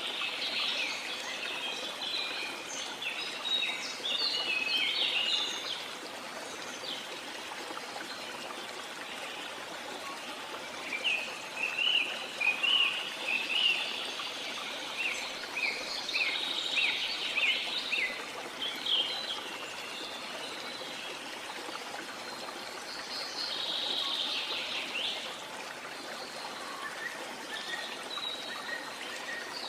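Steady rush of a waterfall with birds chirping over it. The chirps come in busy clusters near the start, through the middle and briefly again later.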